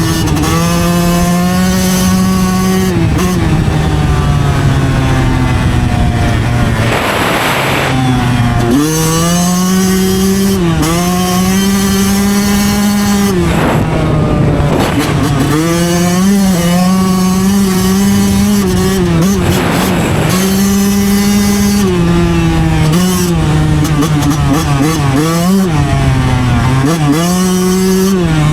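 Yamaha YZ125 two-stroke single-cylinder dirt bike engine running hard while riding. Its pitch drops and climbs again several times with shifts and throttle changes, with one long easing-off and build-up early on. Heard from a helmet chin mount with wind noise over it.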